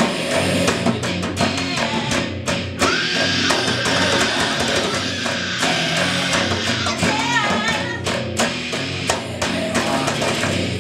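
Heavy metal band playing: distorted electric guitar and drum kit, with singing over it.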